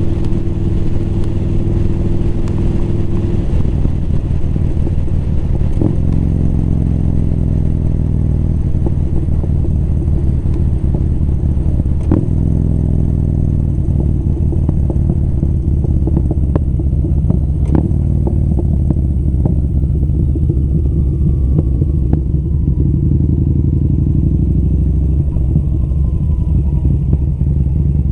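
Motorcycle engine running under way, its note stepping up and down in pitch several times, with a few sharp clicks.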